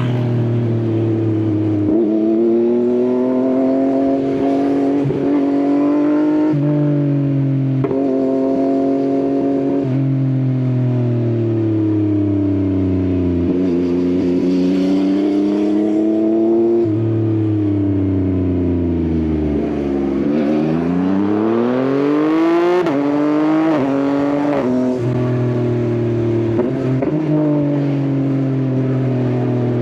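Yamaha XSR900's three-cylinder engine through an Akrapovič exhaust, pulling up through the gears with a step in pitch at each shift. It slows to a low rumble around two-thirds of the way through, then revs hard again and shifts up twice more.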